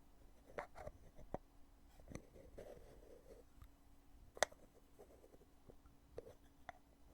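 Lid of a cosmetic foundation container being opened and closed by hand: scattered soft clicks and taps, with one sharp click about four and a half seconds in.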